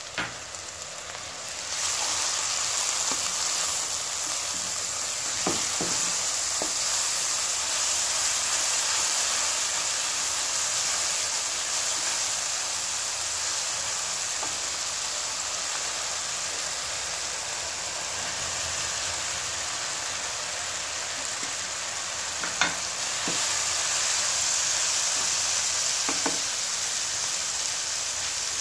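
Chopped onion with soy sauce and vinegar frying in hot oil in a nonstick wok: a steady sizzle that grows louder about two seconds in. A plastic spoon stirs it, with a few sharp knocks against the pan.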